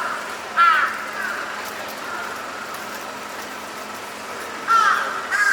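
A crow cawing: one harsh caw about half a second in and two more near the end, over the steady hum of city traffic.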